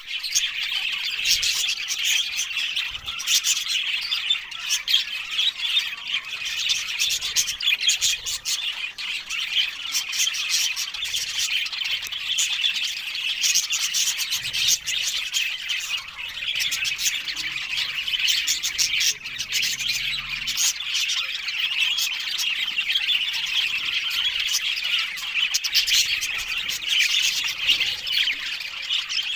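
Budgerigars chattering and squawking without a break: a dense run of rapid, high chirps, warbles and short harsh calls from several birds at once.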